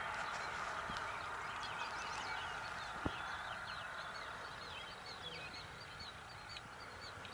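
Small birds chirping over and over in short, high, hooked notes over a steady outdoor hiss that slowly fades. There is a single soft knock about three seconds in.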